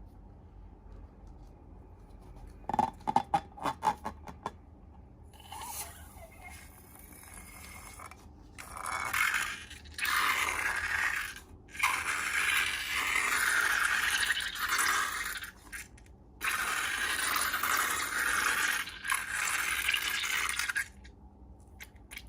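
A few quick clicks about three seconds in, then long scraping sounds in bursts of a few seconds each with short pauses between, as slime materials are worked by hand.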